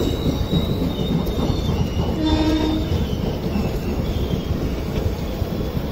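Passenger train running on the track: a steady rumble of wheels and coaches with a thin, high wheel squeal early on. A short horn note about two seconds in lasts roughly half a second.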